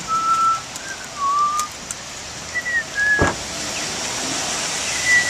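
Heavy rain falling and splashing on pavement and a wet street, with someone whistling a few short notes over it. A single knock about three seconds in.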